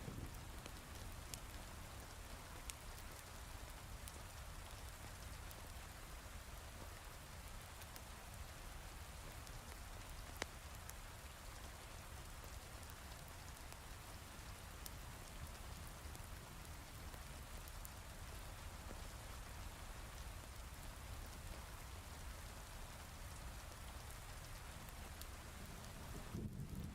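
Steady heavy rain, an even hiss with a low rumble underneath, with a few sharp crackles from a wood fire. A low thunder rumble begins building near the end.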